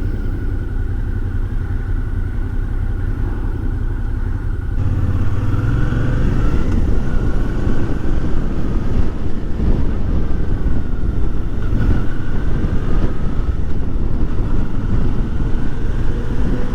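Suzuki V-Strom 650's V-twin engine running under way on the road, picking up speed about five seconds in, with its pitch rising and falling through the gears.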